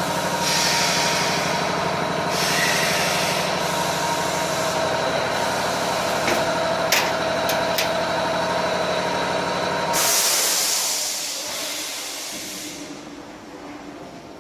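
Double-head aluminium cutting saw running with a steady motor hum, air hissing repeatedly from its pneumatic system and a few sharp clicks. About ten seconds in the hum stops and a longer hiss of released air follows, then the sound dies down.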